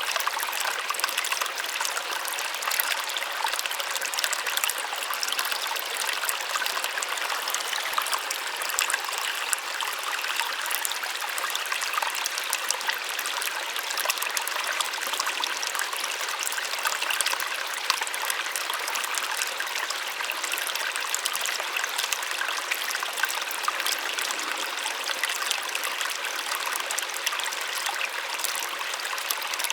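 Small waterfall: water splashing and trickling steadily, a soft even rush with fine crackle and no low rumble.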